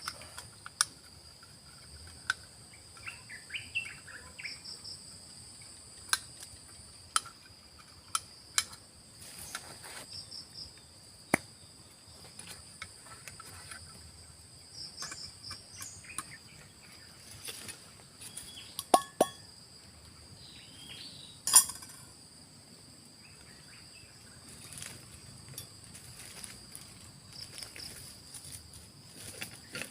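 A steady high drone of forest insects, with sharp clinks and knocks of camp utensils scattered through it as black coffee is being made. The two loudest knocks come about three-quarters of the way in.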